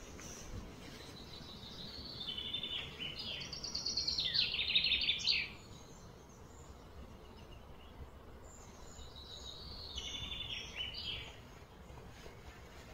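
A bird singing two phrases of fast, repeated high notes over a steady outdoor background. The first phrase starts about a second and a half in and lasts about four seconds, loudest near its end. The second, shorter one comes about two thirds of the way through.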